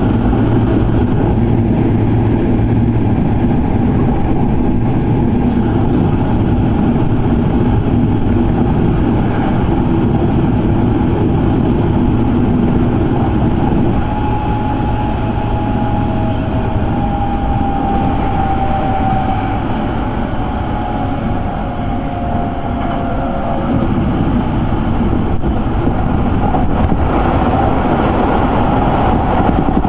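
Electric commuter train running on the line, heard from inside the carriage: a steady rumble of wheels and running gear, with a thin whine that slides slightly down in pitch for several seconds in the middle.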